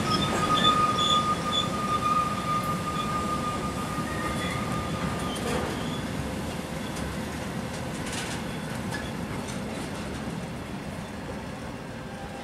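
Freight train of tank wagons rolling slowly along the platform with a steady high squeal from its wheels that dies away about six seconds in. The rolling rumble grows gradually quieter as the train moves off.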